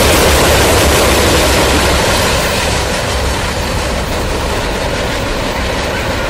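Norfolk Southern freight train passing: a loud, steady low rumble with rail noise that eases off a little about halfway through.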